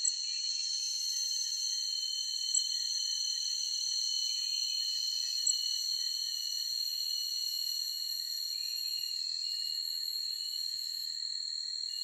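Forest insect chorus: several insects trilling steadily, each at its own high pitch, with three brief high chirps in the first half.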